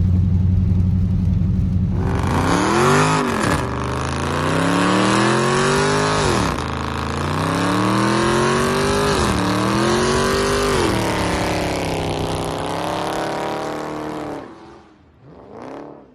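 A car engine drones low and steady, then about two seconds in gives way to a louder run of repeated revs: the pitch climbs and drops back several times, as when accelerating through the gears. It fades out near the end, followed by one short rev up and down.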